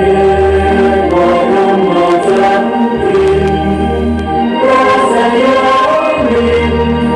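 Recorded choral music with instrumental accompaniment: a choir singing slow, held chords over a low bass line.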